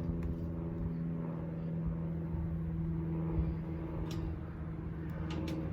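A steady, even-pitched mechanical hum over a low rumble that stops near the end.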